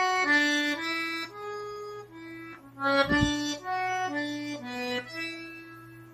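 Accordion (sanfona) playing a slow single-note melody, one held reed note after another, with a brief low thump about three seconds in.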